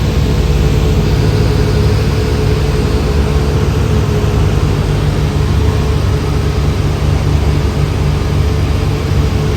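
Steady drone of a light propeller plane's engine and propeller, heard from inside the cabin.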